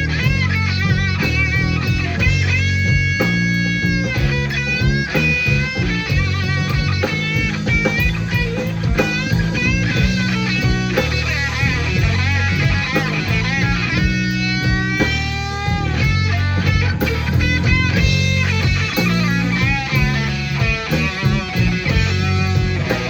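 Live band playing a slow electric blues. An electric guitar leads with bent notes and wide vibrato, including a long upward bend about two-thirds of the way through, over bass guitar and drums.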